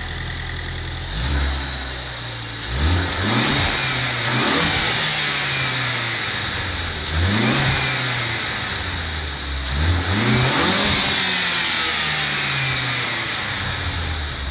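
Ford Focus ST engine on its stock airbox and filter, idling and then revved up three or four times, each rev rising and falling back to idle. This is the baseline sound before the intake swap.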